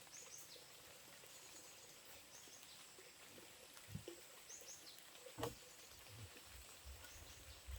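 Quiet outdoor ambience with a bird giving pairs of short falling chirps every two seconds or so. A single sharp knock about five and a half seconds in is the loudest sound, with a fainter one about a second before it.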